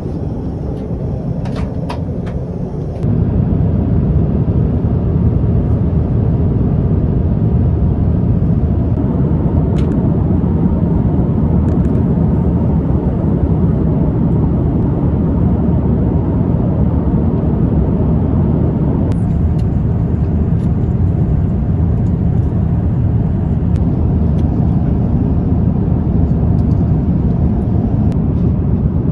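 Airliner cabin noise: a steady low rumble of engines and rushing air, with a few light clicks at first. It gets abruptly louder about three seconds in and stays steady after that.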